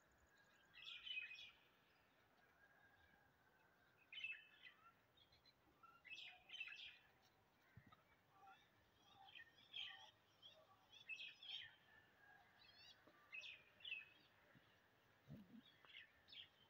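Faint birdsong: small birds chirping in short, repeated calls throughout.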